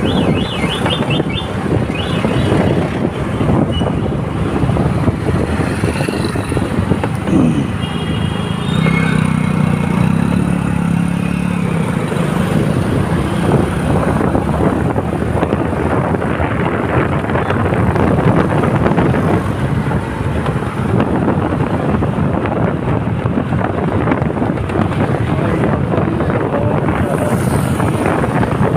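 Steady wind and road-traffic noise while riding a bike along a road. A pitched tone from a passing vehicle stands out for a few seconds about a third of the way in.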